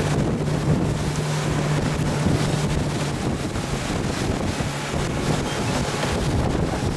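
Motorboat engine running at a steady pitch, weakening about three seconds in, under heavy wind buffeting on the microphone.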